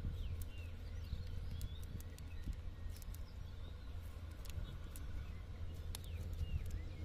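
Small birds chirping now and then in short, curved calls over a steady low rumble, with scattered sharp clicks as a wet fishing net is picked through by hand.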